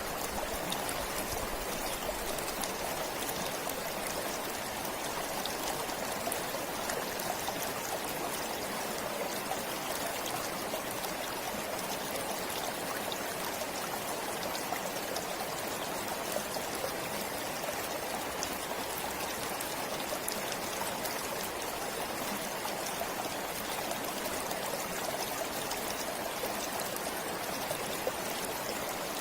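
Forest stream flowing steadily: an even rush of running water with a fine trickling texture.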